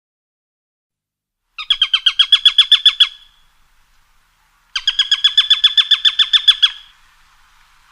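A bird calling: two fast trills of short repeated chirps, about ten a second, the second trill longer than the first.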